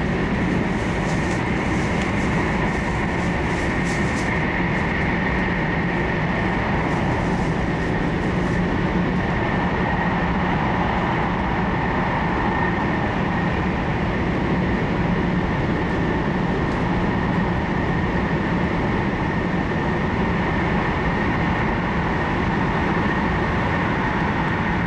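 Steady running noise inside an E4 series Max double-deck Shinkansen car under way: a constant rumble and rush with a steady high whine over it. There is faint crackling in the first several seconds.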